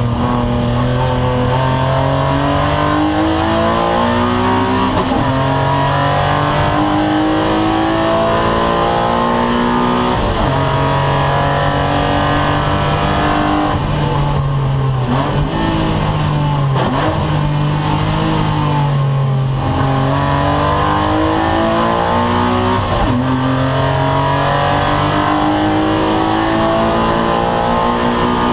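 A 2-litre BMW race car's engine heard from inside the cockpit at racing speed, its pitch climbing through the revs and dropping back sharply at each gear change, every few seconds.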